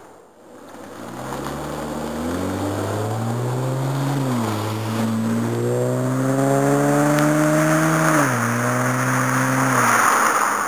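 Acura TL V6 with a resonator-free Greddy EVO II exhaust accelerating hard: the exhaust note climbs in pitch, drops at an upshift about four seconds in and again about eight seconds in, and climbs once more, getting louder toward the end.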